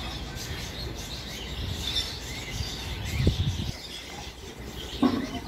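Small birds chirping over steady open-air background noise. A low thump comes a little past three seconds in, and a short sharp knock about five seconds in.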